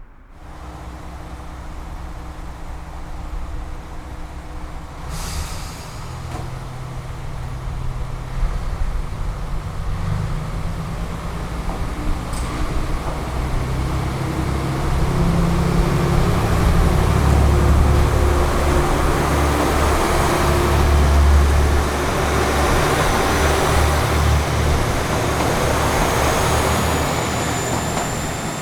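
JR Shikoku N2000 series diesel multiple unit pulling away from a station, its diesel engines growing louder as it accelerates. A faint high whine rises over the engines in the last several seconds.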